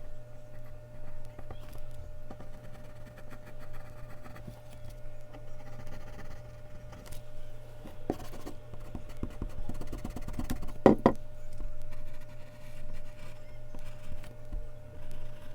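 Mechanical pencil working on Bristol paper: many small scratchy strokes and taps, with a louder knock or two around the middle. A steady low electrical hum runs underneath.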